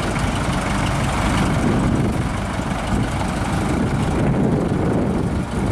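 1975 International Harvester tandem grain truck's diesel engine running steadily at an even speed.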